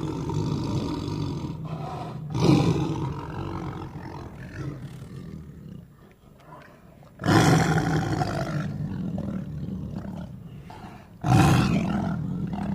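Tiger roaring: three loud, deep roars about four seconds apart, each starting suddenly and fading away.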